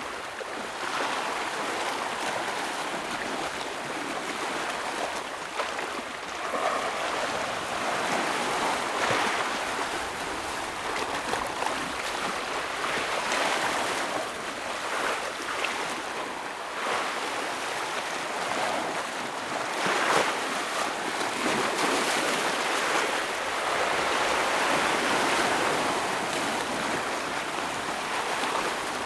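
Ocean waves breaking and washing over rocks, a continuous surf that swells and eases every few seconds.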